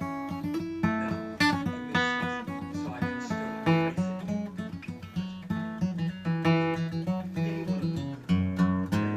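Acoustic guitar playing a lively run of plucked and strummed notes, with quick note changes and sharp attacks.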